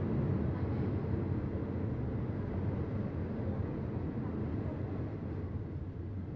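Passenger train pulling slowly out of a station, a steady low rumble heard from an open carriage window.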